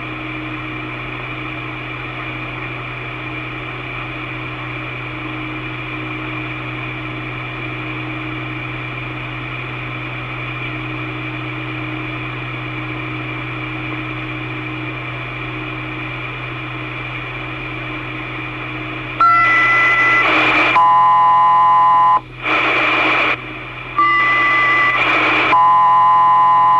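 Open two-way radio channel with steady hiss and hum. About 19 s in, it gives way to a run of loud steady tone bursts, about five of them, each a different chord of tones, like radio dialing or selective-calling signals.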